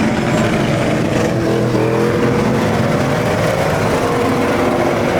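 Vehicle engine running loudly and revving, its pitch rising briefly a couple of seconds in.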